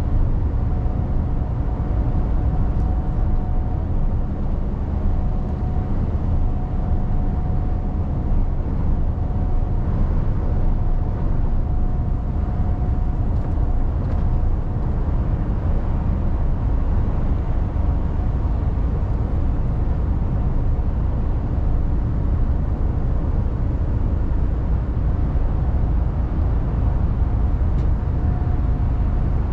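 Mercedes Actros truck heard from inside the cab while driving: a steady low diesel engine and road rumble, with a faint high whine held at one pitch throughout.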